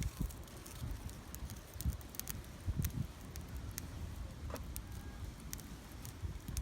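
Small wood campfire burning in a mini fire stand, crackling with scattered sharp pops.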